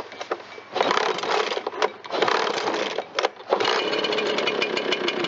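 Echo PB-770H backpack blower's two-stroke engine being pull-started on full choke: two short loud bursts, then from about three and a half seconds in it runs steadily.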